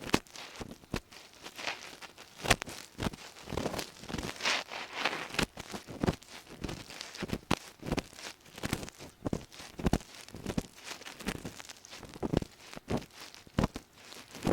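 Ear pick scraping and rubbing inside an ear held right against the microphone: irregular scratchy strokes and crackles, several a second, with a few sharper clicks, like dry earwax being scraped deep in the ear canal.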